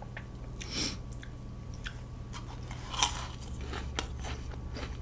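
A person chewing a mouthful of soft rose-berry whipped cream cake close to the microphone: quiet wet mouth sounds with scattered small clicks, one a little louder about three seconds in.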